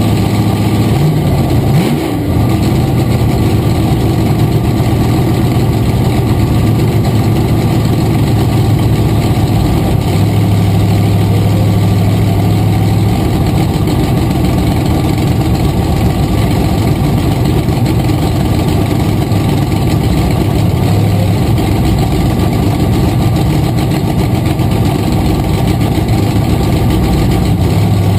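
Supercharged drag-racing gasser engine idling steadily, heard from inside the car, with a short rev about a second in.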